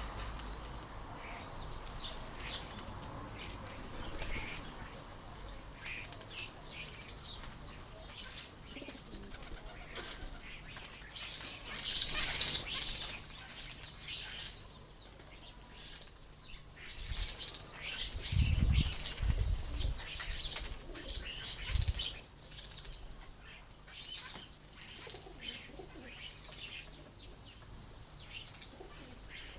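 Starlings at garden bird feeders screeching and chattering as they squabble, with wings flapping. A loud harsh burst of screeching comes about twelve seconds in, and several deep wingbeat flutters come close to the microphone a few seconds later.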